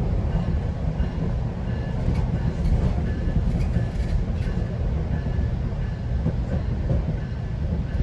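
GO train running along the track, a steady low rumble with occasional clicks from the rails. A faint short high beep repeats about twice a second throughout.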